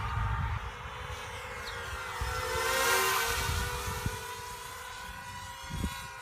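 Small FPV quadcopter's electric motors and propellers whining as it flies past, growing louder to about halfway and then fading, its pitch dropping slightly as it passes.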